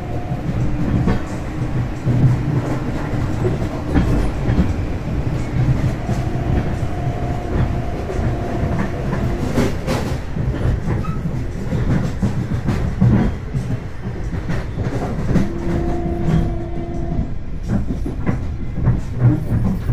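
Long Island Rail Road commuter train running along the track, heard from inside the passenger car: a steady rumble of wheels on rails with irregular clicks from the rail joints. A steady two-note hum comes and goes three times.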